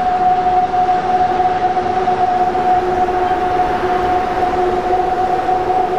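A train headed by an EF63 electric locomotive running past at close range. A steady two-note whine sits over the continuous running noise of wheels on rail.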